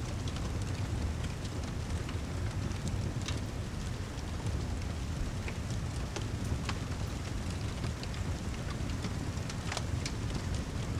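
Steady heavy rain mixed with a crackling wood fireplace: an even hiss over a deep low rumble, with scattered sharp crackles and ticks.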